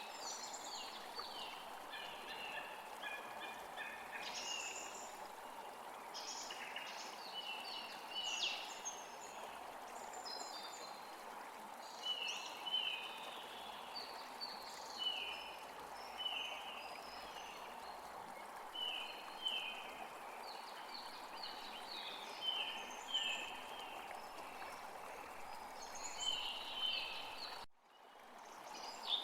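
Several songbirds chirping over a steady rush of flowing water, with many short notes that slide downward and repeat in quick runs. The sound cuts out for a moment near the end.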